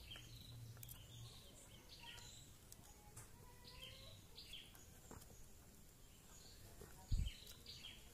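Faint bird chirps, short falling calls repeated many times, over quiet background noise, with a few small clicks and one dull thump about seven seconds in.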